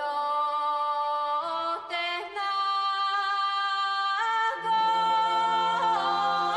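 Intro music of voices singing a cappella in harmony, holding long notes that change in steps every second or two; a lower held note joins about four and a half seconds in.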